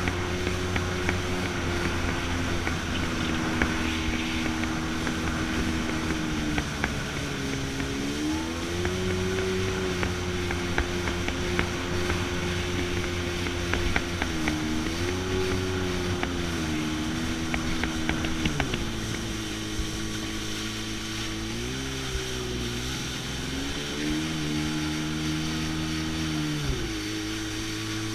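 Jet ski engine running under way, its pitch rising and falling with throttle changes and dropping lower twice near the end, with scattered sharp ticks over it.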